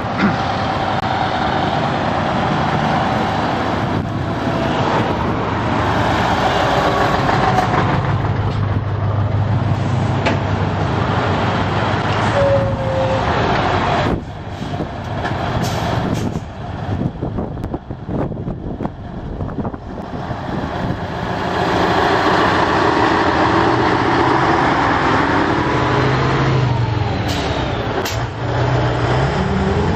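Heavy Scania truck diesel engines running as trucks drive past one after another, with engine pitch rising and falling. It eases off for several seconds in the middle, then grows loud again.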